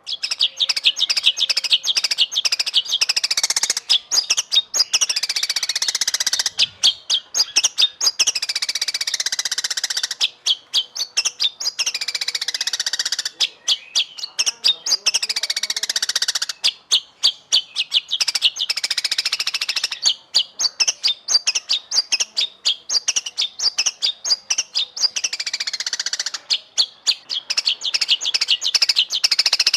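White-rumped shama (murai batu) singing a fast, continuous song of rapid chattering notes, broken every few seconds by long falling whistles.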